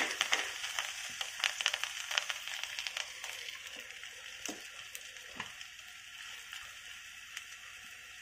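A disc of pumpkin-and-jaggery dough (gharga) frying in a little hot oil on a nonstick pan: a hissing sizzle full of small crackles, busiest at first and dying down over several seconds.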